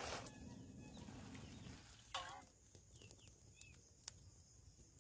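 Near-quiet outdoor ambience with a few faint, short bird chirps and one brief lower call about two seconds in; a single sharp click near the four-second mark.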